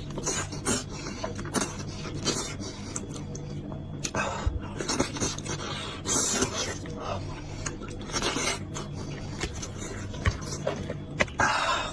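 Close-miked eating sounds of beef trotter being chewed: irregular wet smacks, sucking and slurps, with scattered sharp clicks.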